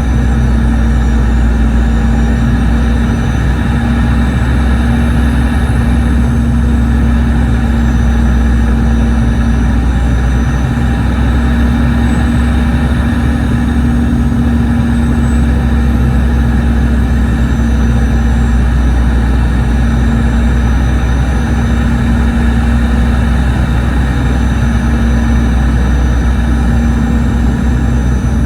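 Boeing 717 cabin noise heard from a window seat: the steady drone of its tail-mounted Rolls-Royce BR715 turbofans and the airflow, with a strong low hum and faint high whines, unchanging throughout.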